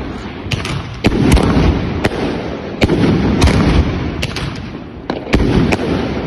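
Fireworks and firecrackers going off in an irregular run of sharp cracks and bangs, a dozen or so, over a continuous low rumble of further explosions.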